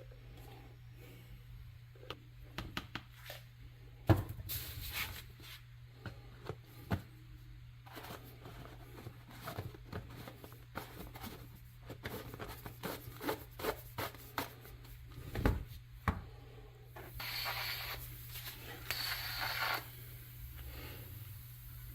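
Hand work on the metal parts of an old pressed-steel toy truck: scattered taps and clicks, with a sharp knock about four seconds in and another near 15 seconds. Rubbing, rasping sounds run between them, and from about 17 seconds a steadier scraping hiss takes over.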